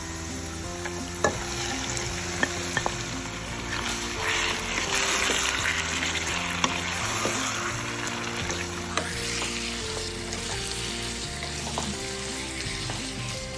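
Chili-marinated chicken frying in hot oil in a wok while being stirred: a steady sizzle that swells about four seconds in, with a few sharp clicks against the pan.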